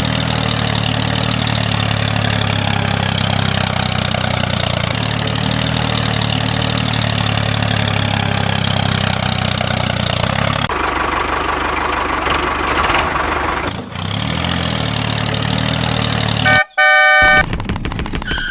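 A tractor engine runs steadily, giving way for about three seconds to a hissier noise with a faint whine before it resumes. Near the end a loud horn honks for about a second and a half.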